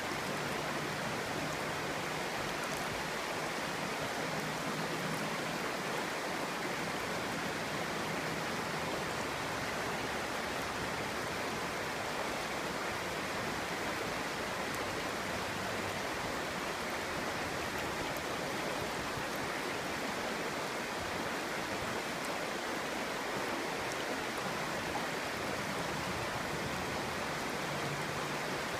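Clear stream flowing over rocks, a steady babbling rush of water.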